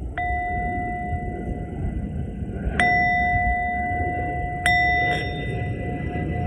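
Singing bowl struck three times, a couple of seconds apart, each strike ringing on in a long steady tone that runs into the next. A constant low rumble lies beneath.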